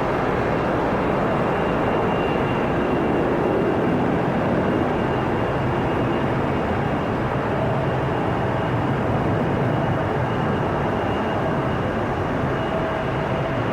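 Jet airliner engines running with a steady, even noise and a faint high whine above it.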